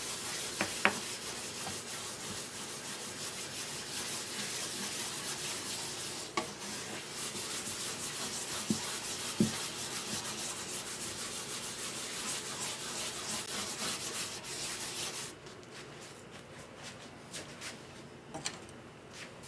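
Sandpaper rubbing on guitar wood in rapid back-and-forth strokes, stopping about fifteen seconds in. A few light clicks and knocks follow.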